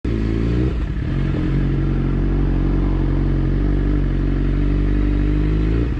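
Motorcycle engine running steadily at a low, even speed, as at idle, with a brief unevenness about a second in.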